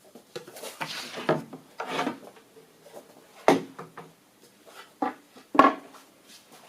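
Wooden offcut being handled: irregular knocks and short scrapes of timber set down and slid on a work surface, the loudest a sharp knock near the end.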